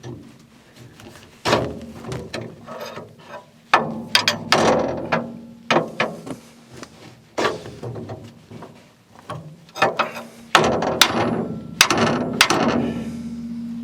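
Hi-Lift jack being worked by hand: irregular metallic clacks and ratcheting clicks as the jack's pins catch on the steel bar, a dozen or so strokes at uneven intervals.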